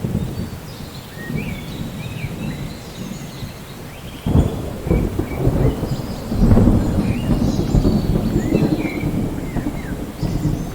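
Rain falling steadily during a thunderstorm, with thunder rumbling low. About four seconds in, a sudden thunderclap starts a louder, long rolling rumble that swells again a couple of seconds later.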